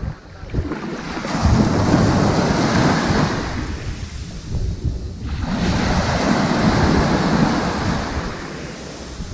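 Ocean waves washing up on a sandy beach, two in a row: each swells into a rush of surf and then ebbs away.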